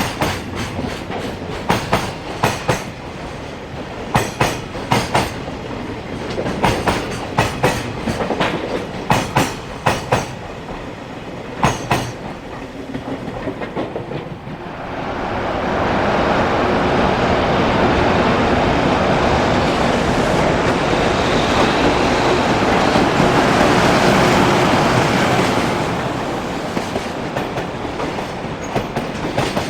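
Freight train container wagons clattering over rail joints in sharp, rhythmic clicks. About halfway through, a louder steady rush of a passing train takes over for roughly ten seconds, then the wheel clicks return.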